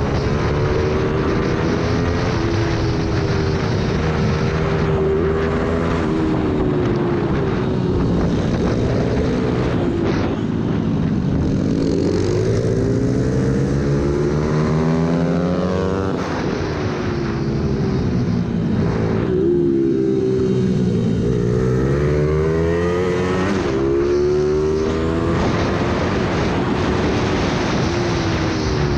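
Ohvale 110 GP-0 minibike's small single-cylinder engine, heard onboard at racing pace: its pitch climbs and drops over and over as it accelerates, shifts and slows for the corners. A constant rush of wind and road noise runs underneath.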